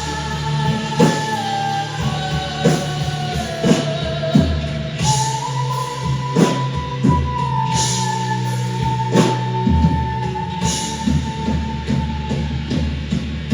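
Rock band playing an instrumental passage: drum kit hits and a steady bass under one long held lead line. The lead slides slowly down, then jumps up about five seconds in and holds.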